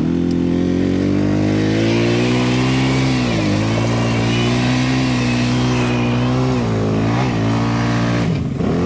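ATV engine running steadily under way, its pitch dipping briefly about three times as the throttle eases and picks up again.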